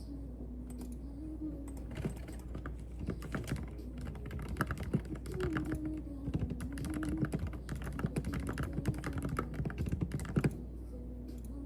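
Typing on a keyboard: a quick, irregular run of key clicks that starts about two seconds in and stops near the end.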